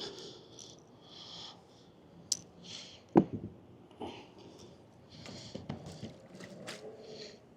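Handling noise from a large flathead catfish being held in a boat: rustling and short breathy puffs, with one sharp knock about three seconds in and a few lighter taps later.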